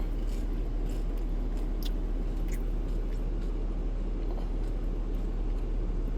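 Someone chewing a bite of crispy egg roll, with a few faint crunches in the first half, over a steady low hum.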